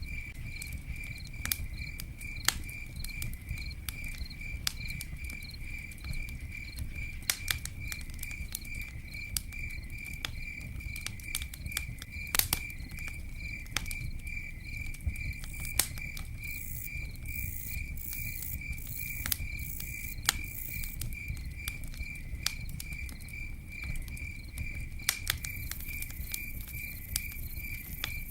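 Cricket chirping in a steady, even rhythm about twice a second over the low rumble of a campfire, with sharp crackling pops from the burning wood scattered throughout.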